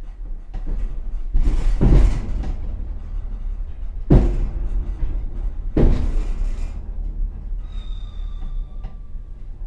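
Passenger train car running slowly with a steady low rumble, heard from the rear vestibule, with three heavy clanking knocks about two seconds apart and a brief thin high squeal near the end.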